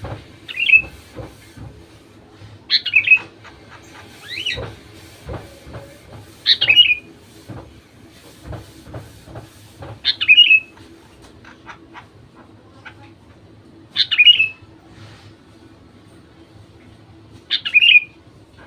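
Sooty-headed bulbul giving short call phrases, seven of them a few seconds apart. The calls are used as a lure to set other bulbuls singing. Faint clicks and a low hum sit beneath.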